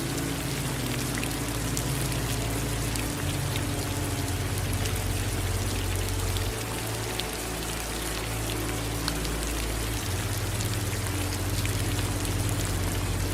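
Steady rain falling, with scattered single drops ticking through it. Under it runs a low hum that changes pitch every few seconds.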